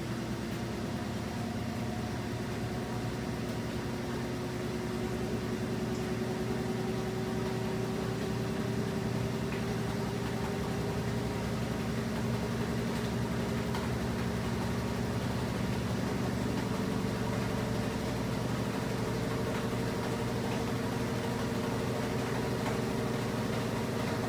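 Washing machine running, its motor whine rising slowly and steadily in pitch as the drum speeds up, over a steady low hum; it gets a little louder about five seconds in.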